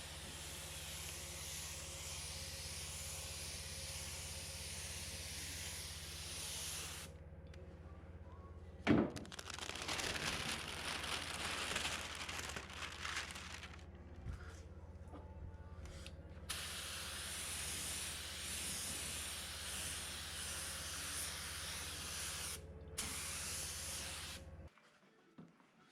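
Compressed air hissing from an air gun in several long bursts, over a steady low hum. A single knock comes about 9 seconds in.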